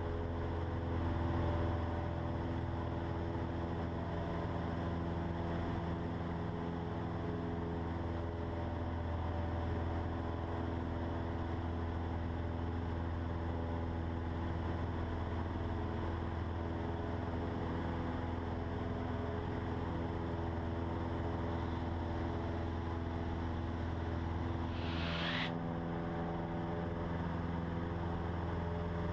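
Cessna 150's four-cylinder Continental O-200 engine and propeller droning steadily in the climb after a full-throttle take-off, heard from inside the cockpit. About 25 seconds in there is a brief hiss and the drone's low tone shifts.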